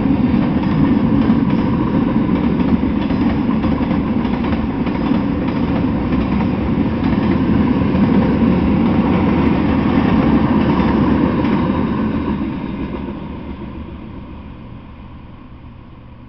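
A freight train's boxcars and covered hopper cars rolling past on the rails, a steady noise of wheels and cars that fades away over the last few seconds as the end of the train goes by.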